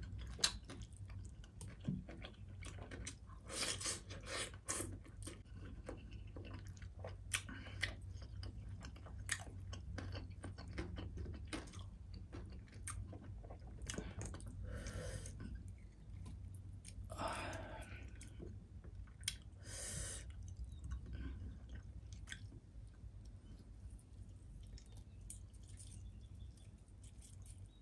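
Close-miked eating with the fingers: a person chewing crispy fried fish and salad, with many small clicking mouth sounds and a few louder crunches.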